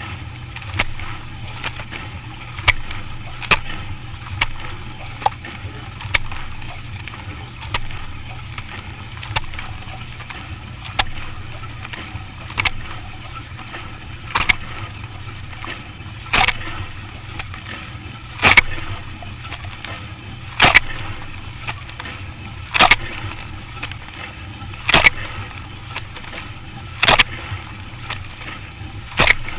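A machine running with a steady low hum, punctuated by sharp clacks that repeat regularly, at first about once a second, then spacing out to roughly every two seconds and getting louder.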